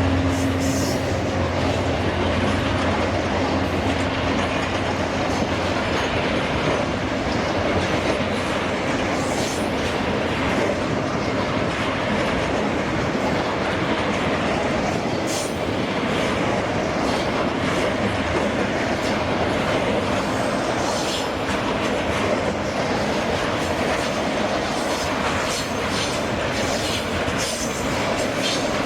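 Freight train wagons rolling past with their wheels clacking over the rail joints. A locomotive's low engine hum fades out in the first second or two.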